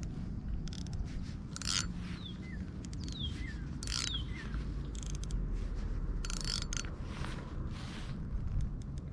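A bird gives several short falling chirps in the first half, amid short bursts of clicking and a steady low rumble.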